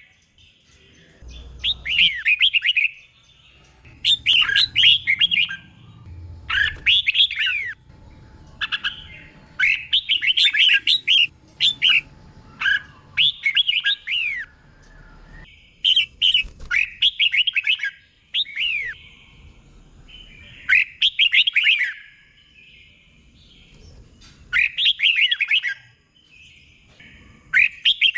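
Red-whiskered bulbul singing: short, bright whistled phrases with quick up-and-down glides, repeated every second or two and often given in quick doubled pairs.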